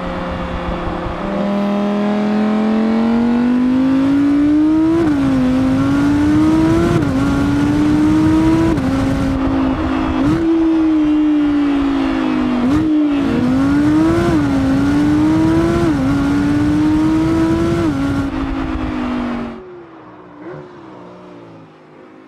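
2023 Audi R8 GT RWD's 5.2-litre naturally aspirated V10 being driven hard: a short steady stretch, then the engine note repeatedly climbs and drops back as the seven-speed dual-clutch gearbox shifts, about ten times. Near the end the engine note falls away sharply and fades.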